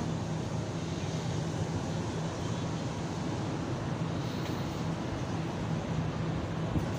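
Steady running noise of the Tezgam express passenger train rolling along the track, heard from an open coach doorway: an even rumble with a constant low hum.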